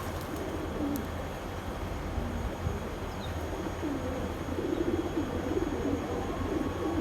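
Domestic pigeons cooing, a run of low, wavering coos coming thick in the second half.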